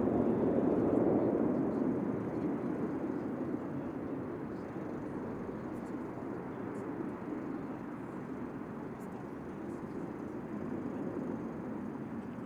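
Jet aircraft engine noise, a wide, even rumble that fades over the first few seconds as the jet moves away, then lingers as a steady distant roar.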